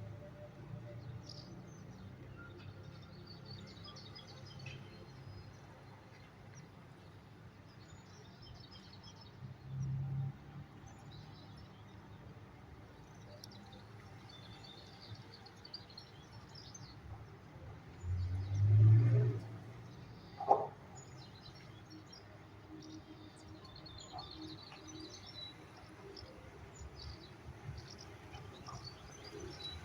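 Small birds chirping on and off throughout. A low rumble comes about ten seconds in, a louder low rumble about two-thirds of the way through, and a short sharp sound just after it.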